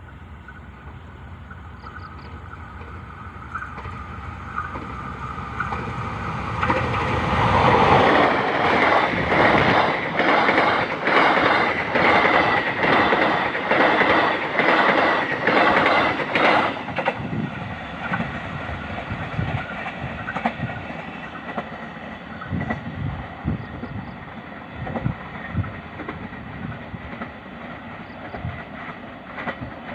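KA Logawa passenger train approaching and passing close by: a rising rumble, then about nine seconds of loud, rhythmic clickety-clack of wheels over the rail joints, easing to a lighter clatter as the last carriages go by.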